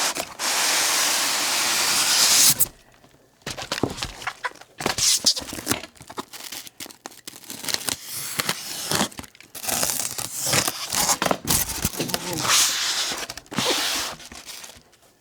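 Paper packaging being torn open by hand in one long rip lasting a couple of seconds, followed by irregular rustling and crinkling as the wrapping is pulled away and handled.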